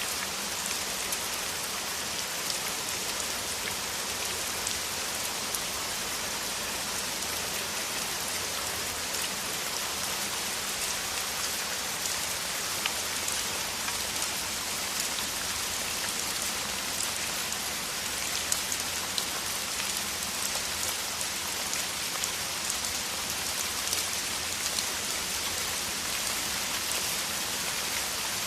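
Heavy rain falling steadily in a downpour: an even hiss of rainfall with many sharp individual drop ticks scattered through it.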